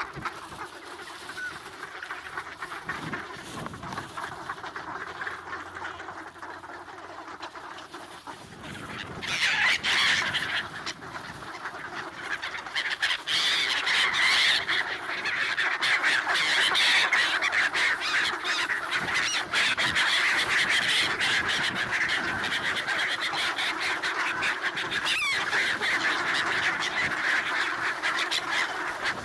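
A large flock of black-headed gulls calling densely, mixed with calls of swans and ducks. The clamour grows louder and thicker about eight or nine seconds in.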